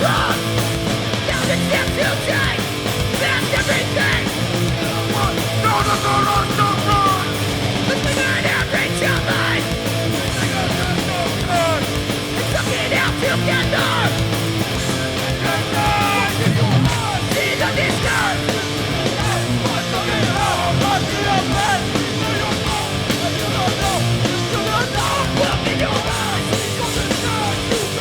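Hardcore punk band playing live at full volume, with shouted vocals.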